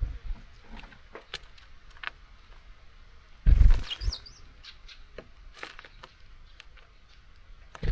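Small birds at a seed feeder: scattered sharp taps and clicks of beaks and feet on the feeder. A loud thump with a flutter of wings comes about three and a half seconds in, with a couple of short high chirps, and another thump near the end.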